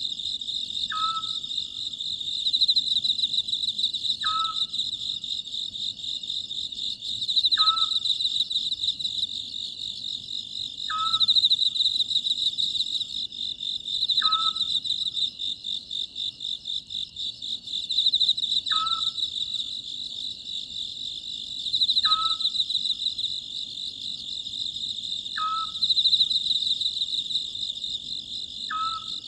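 Oriental scops owl calling, a short note repeated about every three and a half seconds, over a steady, pulsing chorus of crickets that swells and fades.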